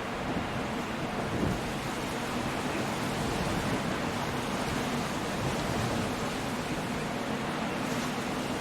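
Coastal storm: a steady, dense rush of rain and sea surf, unbroken, with a brief swell about a second and a half in.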